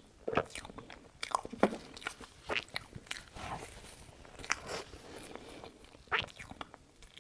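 Close-miked mouth sounds of someone eating soft cake: chewing with irregular wet clicks and smacks.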